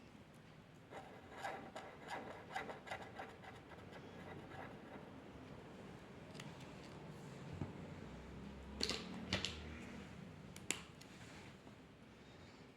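Faint scratching and rubbing strokes of a drawing tool on paper. One run of quick strokes comes about a second in, another comes about nine seconds in, and there is a sharp click near the end.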